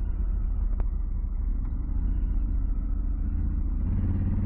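Motorcycle engine running steadily under way, with a low road and wind rumble; the engine note grows a little louder near the end.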